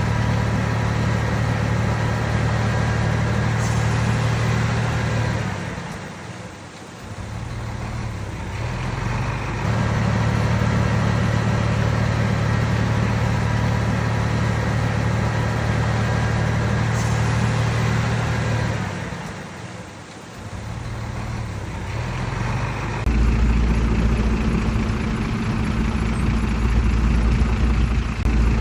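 Komatsu D31PX bulldozer's diesel engine running steadily. It dips briefly twice, then settles into a deeper, heavier hum about three-quarters of the way through.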